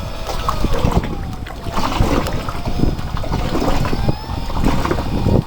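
Wind buffeting the microphone with a heavy rumble, and behind it a small motor's whine rising and falling in pitch.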